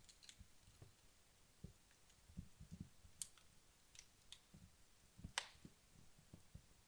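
Wood fire burning down, faint crackling with scattered sharp pops and ticks, the loudest crack about five seconds in.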